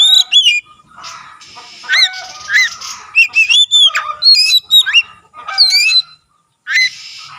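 Oriental magpie-robin (kacer) singing loudly: a fast, varied run of rising and falling whistled notes mixed with harsh, scratchy phrases, with a short break about six seconds in.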